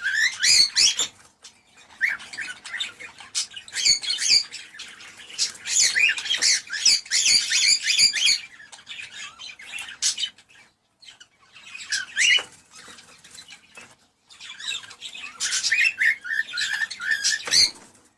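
Cockatiels chirping and warbling in bursts of rapid, whistled calls with short pauses between them; the calls stop abruptly near the end.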